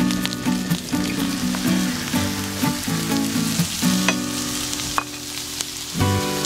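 Bacon, sausages, hash browns and eggs sizzling and crackling on a flat hotplate, with background music playing over it.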